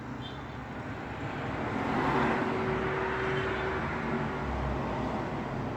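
Road traffic: a vehicle passes close by over a steady low traffic rumble, its noise swelling to a peak about two seconds in and easing off slowly.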